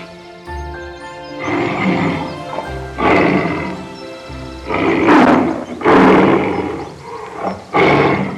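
A big cat giving about five loud, rough roars, over background music.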